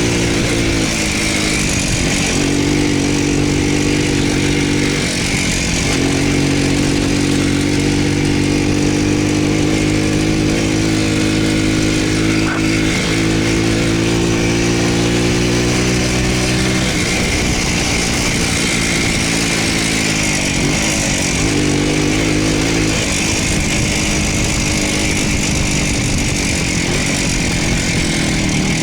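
Voskhod motorcycle's two-stroke single-cylinder engine running under way. Its pitch drops and picks up again several times, as with easing off the throttle or changing gear.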